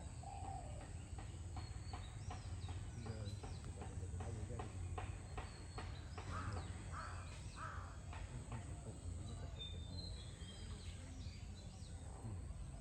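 Crows cawing, three loud caws in the middle, with other birds' short chirps. Under them is a run of sharp taps, about two or three a second, and a steady low hum.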